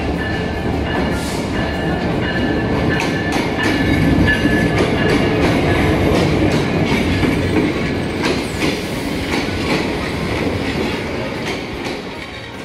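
A Bangladesh Railway diesel locomotive and its passenger coaches rolling past along a station platform, the wheels clattering over the rail joints. A steady high squeal rides over the noise for the first few seconds, the sound is loudest as the locomotive passes close by, and it fades near the end.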